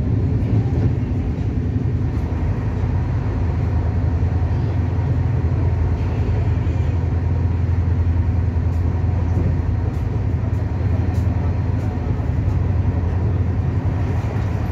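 Shatabdi Express passenger coach running at speed, heard from inside: a steady low rumble of wheels on the track that does not let up.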